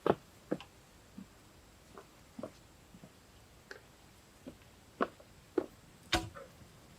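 Irregular light knocks and clicks, about a dozen short sharp sounds spaced unevenly, the strongest just after six seconds in.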